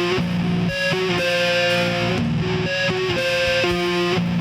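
Instrumental passage of a home-recorded nu-metal song: electric guitar playing a repeating phrase of held notes that change about every half second.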